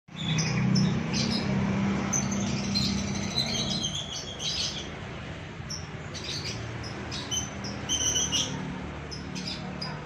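Birds chirping in short, scattered high notes over a low steady hum; the hum is loudest for the first four seconds, then fades back.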